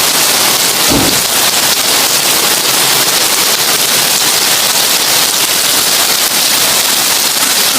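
Heavy rain pelting a tin roof: a steady, dense crackling hiss, with one brief low thump about a second in.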